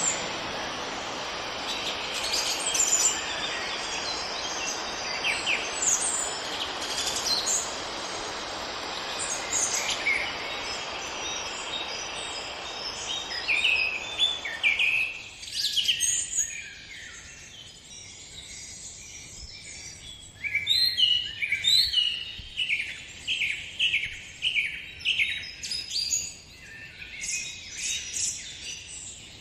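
Many small birds chirping and singing in quick, repeated short notes. For about the first half a steady rushing hiss lies under them and cuts off suddenly, leaving the birdsong alone.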